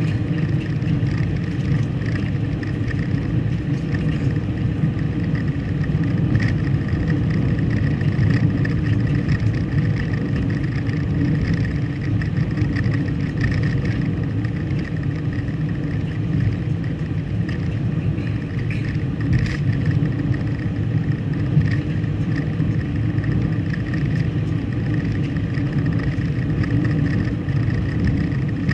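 Car driving along at a steady pace: continuous engine and road rumble with no sharp changes.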